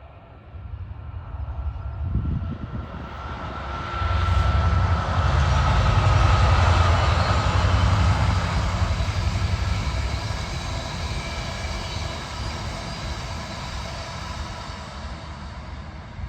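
A Class 66 diesel-hauled freight train passes, coasting. It builds up, is loudest with a deep engine rumble for several seconds about a third of the way in, then the wagons keep up a steady rolling noise that slowly eases off. A faint whine sinks slightly in pitch as the locomotive goes by.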